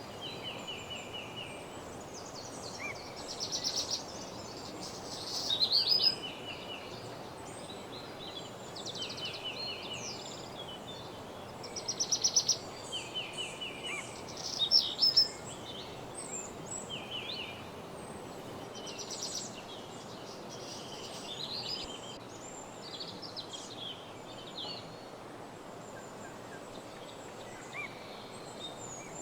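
Several songbirds singing in woodland: short repeated-note phrases and fast high trills from different birds, the loudest trills coming about 6, 12 and 15 seconds in, over a steady soft background hiss.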